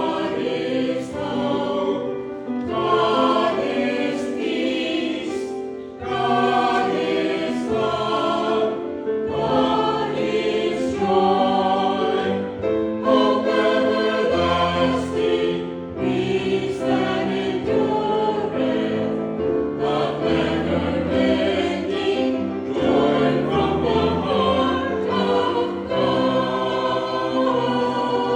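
A group of voices singing a hymn in parts over a sustained instrumental accompaniment, phrase after phrase without a break.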